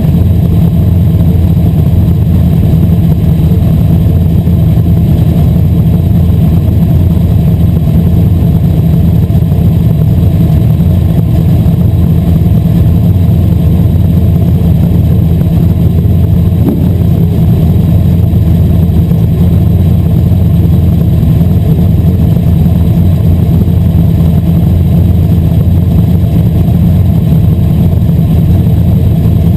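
Asphalt modified race car's V8 engine running hard at racing speed, a loud, steady, bass-heavy drone that overloads the microphone.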